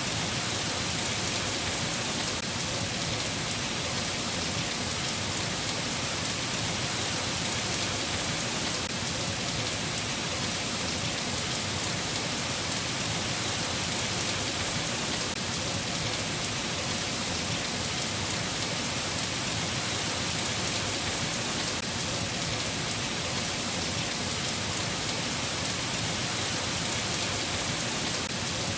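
Steady rain falling, an even hiss that holds constant with no breaks or claps of thunder.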